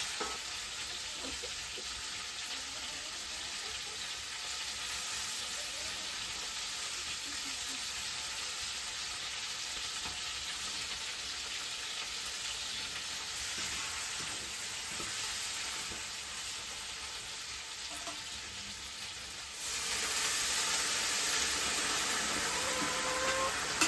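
Food frying and sizzling in hot oil in a pan, a steady hiss that turns suddenly louder near the end.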